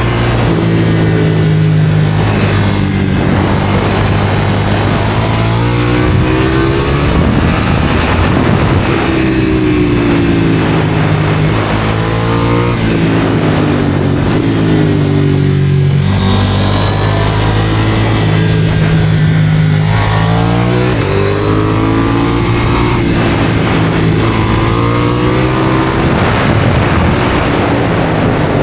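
KTM 790 Duke's parallel-twin engine through an IXRACE aftermarket exhaust, accelerating and rising in pitch several times, dropping back at each gear change, between stretches of steady cruising.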